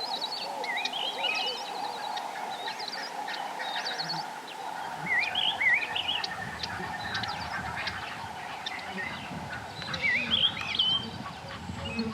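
Several birds calling together: many short whistled and chirping calls, with louder clusters of rising, twisting whistles about five seconds in and again near the end. Underneath runs a steady background hum.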